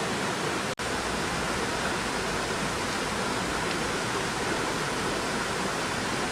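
Steady rushing of a stream, an even wash of water noise with no pauses except a momentary dropout under a second in.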